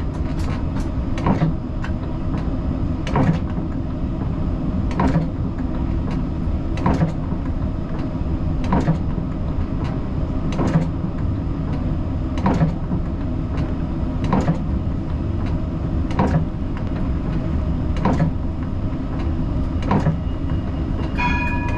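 Siemens Combino tram running with a steady low rumble, with a sharp click about once a second. Near the end a short pitched chime sounds, the signal ahead of the next-stop announcement.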